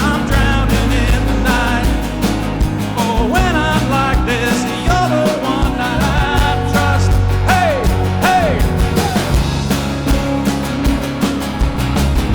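Live rock band playing loud, with regular drum hits, heavy bass and a lead melody line that bends up and down in pitch.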